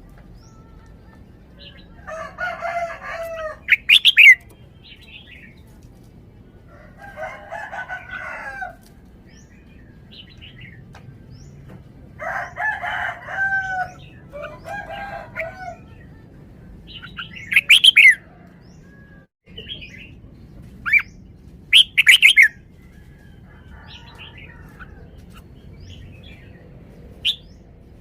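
Red-whiskered bulbul singing: short, very loud, sharp notes come every few seconds, between longer, lower, warbling phrases.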